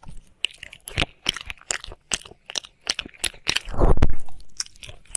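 Wet mouth and tongue sounds close to the microphone, as in ASMR ear licking: irregular sharp smacks and clicks, with one louder, longer licking sound about four seconds in.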